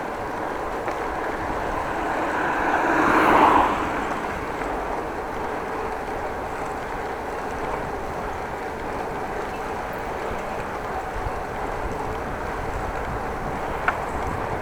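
Wind buffeting the microphone of a moving bicycle's camera, a steady rushing noise that swells for a couple of seconds and drops off abruptly about three and a half seconds in. A single sharp click comes near the end.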